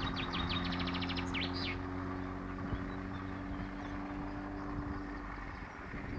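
A songbird singing a fast, high trill in the first couple of seconds, over a steady low hum.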